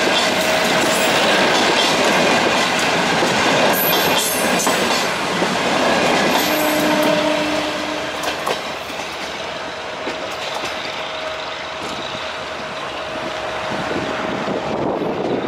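CNR long-distance passenger coaches rolling past on steel rails, wheels clattering over the track with a thin steady squeal. The noise fades about halfway through as the last coach moves away.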